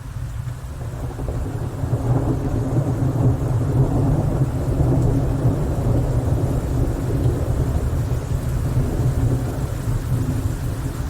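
Rolling thunder in a rainstorm: a deep rumble that swells over the first two seconds or so and keeps rolling on, over the hiss of rain.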